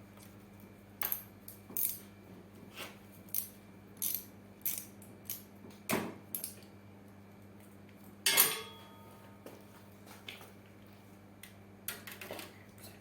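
Small metal parts and hand tools clinking and tapping, about a dozen sharp irregular clicks, with one louder metallic clatter that rings briefly a little past the middle.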